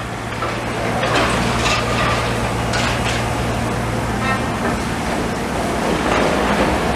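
Demolition machinery on a site: a diesel engine hums steadily while several sharp clanks and scrapes ring out in the first few seconds.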